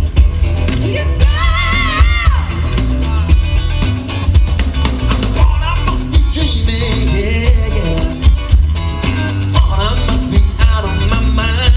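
Live rock band playing loud amplified music, with heavy bass and a steady drumbeat; about a second in, a long wavering high note is held for about a second, with a singing voice over the band.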